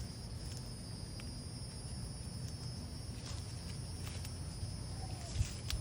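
Outdoor ambience: a steady, high-pitched chorus of insects such as crickets over a low rumble. A few faint clicks come through, and there is a soft bump near the end.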